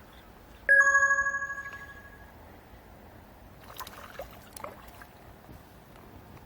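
A single bright, bell-like chime struck once about a second in, ringing and fading away over about a second and a half, followed by a few faint clicks and rustles.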